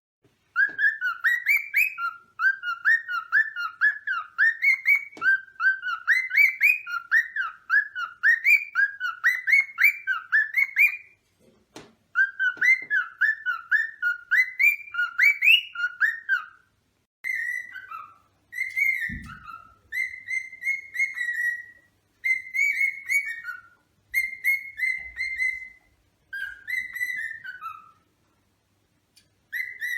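Cockatiel whistling. Strings of quick rising whistled notes run to about 16 seconds in, with one short break, then give way to short separate whistled phrases with brief pauses between them.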